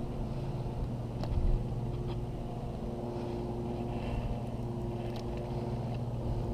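An engine running steadily at one constant pitch, with a few faint clicks.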